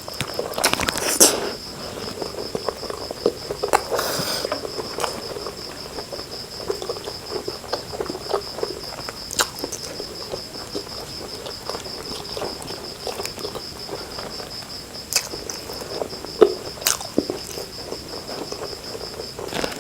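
Chewing and scattered sharp clicks of a person eating biryani, over a steady high-pitched trill of an insect such as a cricket.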